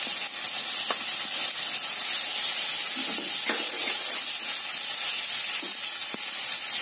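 Diced potatoes, tomatoes and crushed peanuts sizzling steadily in hot ghee in a non-stick kadhai while a wooden spatula stirs them, with a few soft scrapes of the spatula against the pan.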